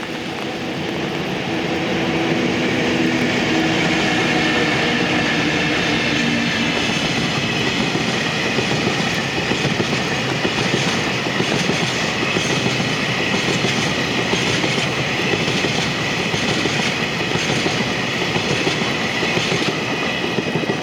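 JR Freight freight train passing at speed behind two coupled EF64 electric locomotives: a steady rumble and clatter of wheels on the rails. A low hum is heard through roughly the first six seconds.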